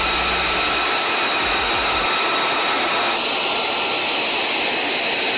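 Fighter jet engine running with a loud, steady rushing noise and a high whine, the whine shifting slightly higher about three seconds in.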